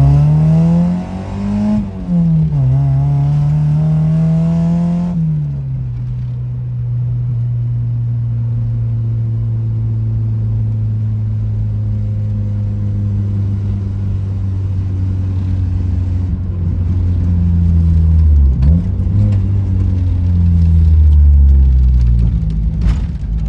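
Mazda Miata drift car's four-cylinder engine revving, with its pitch climbing and dropping: it rises twice in the first five seconds, then settles to a steadier lower note. It dips sharply, climbs again and flutters near the end.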